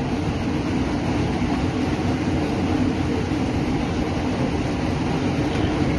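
Kolkata Metro East-West Line train running through a tunnel, heard from inside the car as a steady, even rumble.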